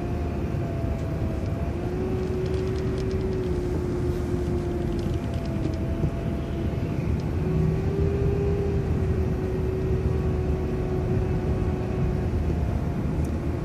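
City transit bus driving, heard from inside: a steady low engine and road rumble with a drivetrain whine that drifts slightly in pitch.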